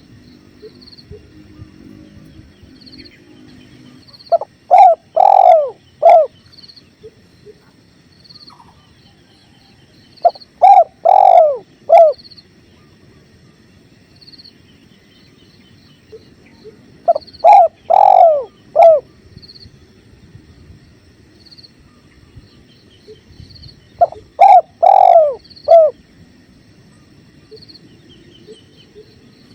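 Spotted dove (tekukur) cooing: four phrases of several low coos each, about six to seven seconds apart. A flowing river makes a steady low rush under them, with a faint high chirp repeating throughout.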